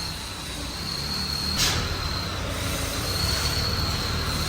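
Loading machinery whining steadily and high-pitched over a low mechanical rumble as a car is loaded onto a platform, with one sharp clank about one and a half seconds in.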